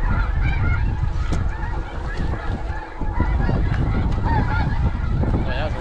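A flock of snow geese calling, many overlapping high honks at once, over heavy wind buffeting the microphone.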